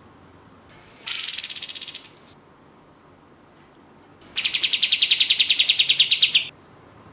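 Kapas tembak bulbul singing two rapid, rattling trills of fast repeated notes, the first about a second long and the second about two seconds long, starting abruptly and stopping abruptly.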